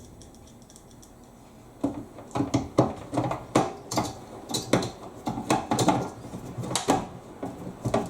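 Irregular light clicks and clacks of small screws and a screwdriver being handled on a tumble dryer door as the screws are put back in, starting about two seconds in.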